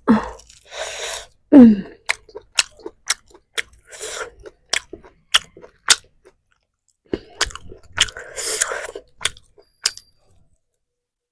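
Close-up eating sounds: chewing with crunchy bites and sharp wet mouth clicks. A brief falling hum from the eater comes about one and a half seconds in.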